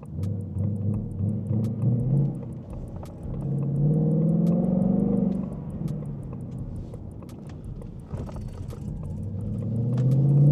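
Ford Mustang GT's V8 engine heard from inside the car, rumbling at low revs, then accelerating with a rising pitch about four seconds in, easing off, and pulling up again near the end.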